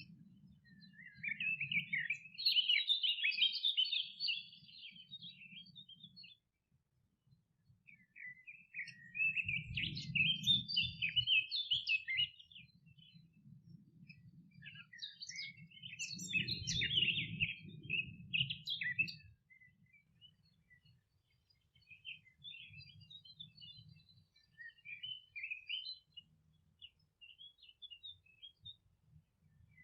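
Songbirds singing in quick, twittering phrases of chirps. The three loudest phrases come near the start, around ten seconds in and around seventeen seconds in, with softer, scattered chirps after that. A faint low rumble sits under the louder phrases.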